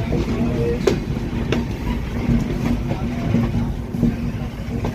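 Passenger train running over the track with a steady low rumble and hum, and sharp irregular clicks of the wheels crossing rail joints and points as it enters a junction station.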